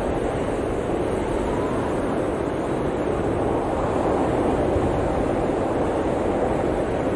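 Steady blizzard wind roaring over mountain terrain, a dense continuous rush with a low rumble underneath and no gusts standing out.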